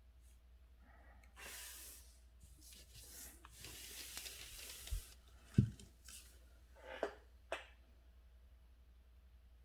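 Paper rustling and sliding in two short hissing stretches, followed by two soft thumps and two light clicks, as paper and writing things are handled.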